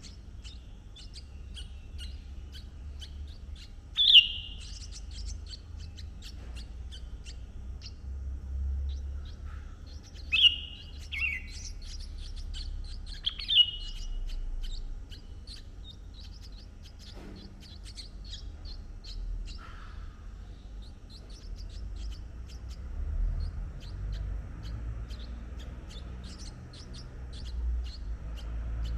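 Red-whiskered bulbul calling: four loud, short notes that slide downward, about 4, 10, 11 and 13.5 seconds in. Between them runs a steady scatter of faint, high chirps. A low rumble lies underneath throughout.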